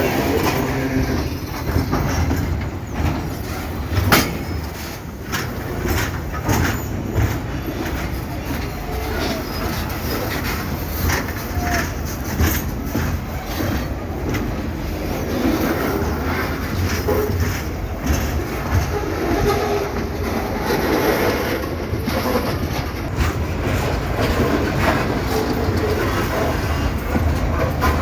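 Freight train wagons rolling past on steel rails: a steady low rumble with irregular sharp clacks of wheels over rail joints, the loudest about four seconds in.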